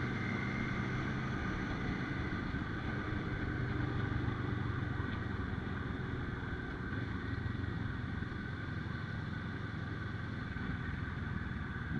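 Motorcycle engine running steadily, a constant hum with no change in pitch.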